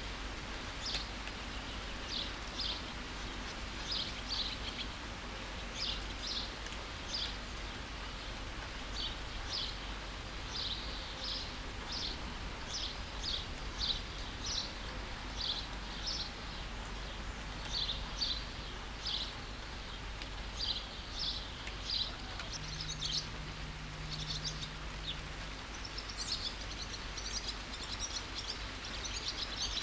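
Steady rain hiss with a bird repeatedly giving short high chirps, about one or two a second; near the end a busier, higher twittering joins in.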